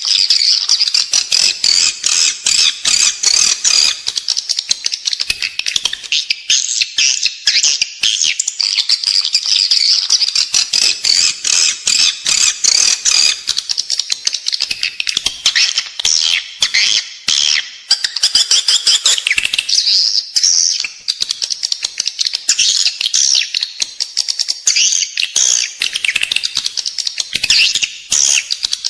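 Edible-nest swiftlets calling: a dense, unbroken twittering of rapid chirps and clicks, the calls the birds make inside a nest house. This kind of recording is used as a lure to draw swiftlets into a building to nest.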